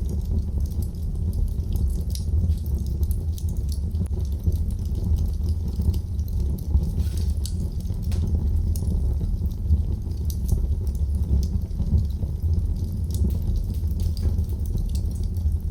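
Wood fire in a fireplace crackling, with frequent small sharp pops and snaps over a steady low rumble.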